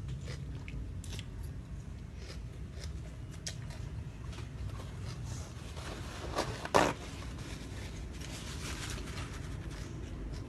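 A person eating crunchy food, with scattered small clicks of chewing and one louder crunch about seven seconds in, over a steady low hum.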